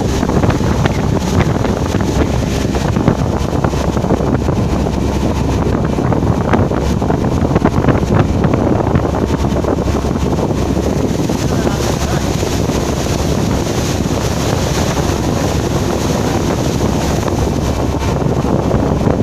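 Wind buffeting the microphone on a moving boat: a loud, steady rumbling rush without pauses.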